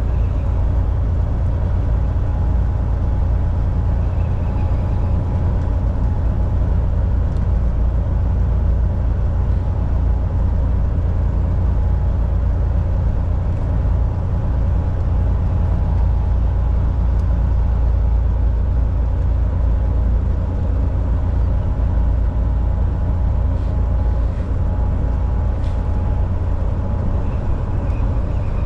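Volvo VNL 760 semi-truck cruising at highway speed: a steady low engine and road drone with a faint, even whine over it.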